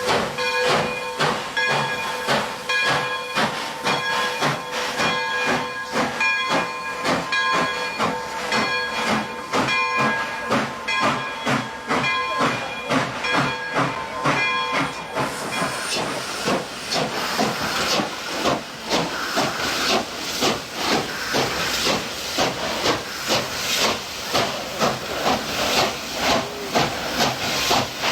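Union Pacific Big Boy 4014, a 4-8-8-4 articulated steam locomotive, working under steam with steady rhythmic exhaust chuffs. For about the first half its chime steam whistle is held in one long blast of several tones together, then cuts off. After that the chuffing and hissing steam carry on.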